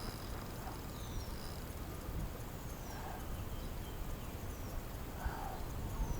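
Birds calling: short, high, downward-slurred notes every couple of seconds, with a few lower chirps between, over a steady low rumble.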